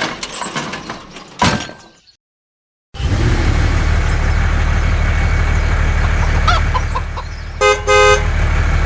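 Steady low engine drone, as of a truck running, starting about three seconds in after some clicks and a short gap. A few short chirps come over it, and two short honk-like blasts sound near the end.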